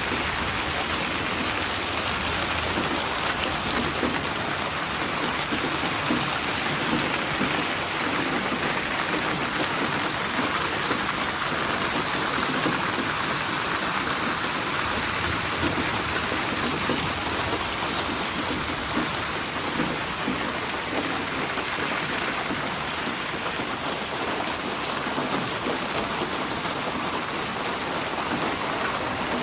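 Steady rain falling and pattering on surfaces, an even hiss that holds at the same level throughout.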